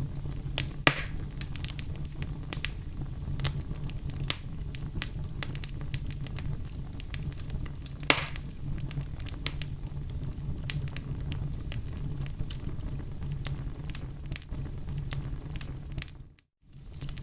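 Wood fire crackling in a fireplace: a steady low rumble of flames under a constant scatter of small pops and snaps, with two louder pops, one about a second in and one about eight seconds in. Near the end the sound dips briefly to silence and comes back.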